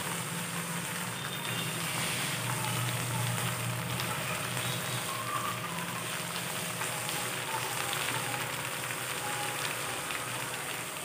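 Chicken pieces frying in oil in a pan with a steady sizzle, a spatula stirring and scraping them. The chicken is almost done, its water cooked off and the oil separating.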